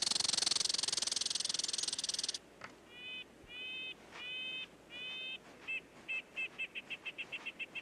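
Red squirrel calling: a long, harsh, high rattle, then four short barks, then a quickening run of short sharp chirps.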